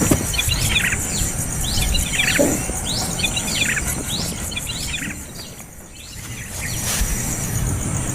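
Small bird chirping: short downward-sliding calls repeated about once a second, fading briefly a little past the middle, over a steady high-pitched insect buzz.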